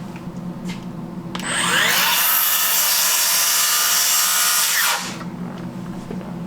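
Electric power saw cutting wood. The motor whines up about a second and a half in, runs loud and steady through the cut for about three seconds, then winds down and stops near five seconds in.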